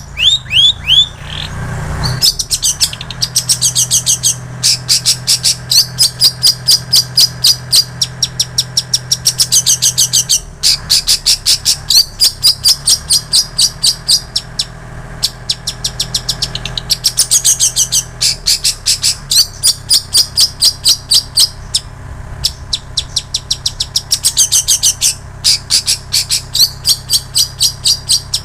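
Long-tailed shrike (cendet) singing a mimicked song stuffed with prinia and canary phrases: long runs of rapid, high, repeated notes broken by short pauses, over a faint steady low hum.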